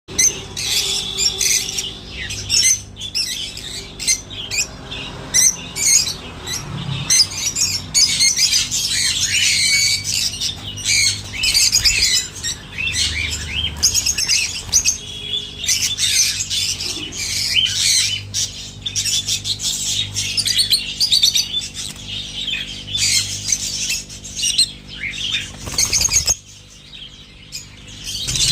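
A flock of African lovebirds chattering, with many overlapping shrill chirps and squawks. The calls drop away briefly about two seconds before the end.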